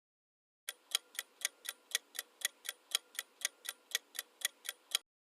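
Clock ticking sound effect used as a quiz countdown timer: even tick-tock clicks, about four a second, starting under a second in and stopping shortly before the end.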